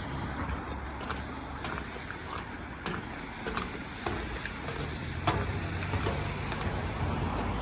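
Outdoor background noise: a steady low rumble with a few scattered light clicks and knocks.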